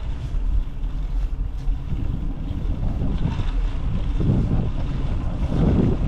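Wind buffeting the microphone during a ride: a steady low rumble that swells in gusts about four seconds in and again near the end.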